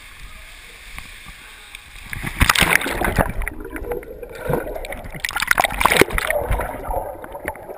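Swimming-pool water splashing and sloshing around the camera, quiet at first, then loud and irregular from about two seconds in, easing off near the end.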